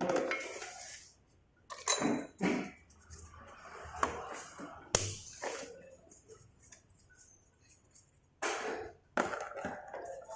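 Irregular knocks, clinks and rustling from metal motorcycle engine parts being handled and cleaned, with a few sharp clicks about four and five seconds in.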